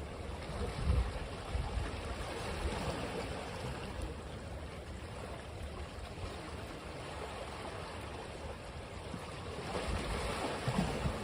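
Ocean waves washing on a beach: a continuous rush of surf with low rumbles, swelling again near the end.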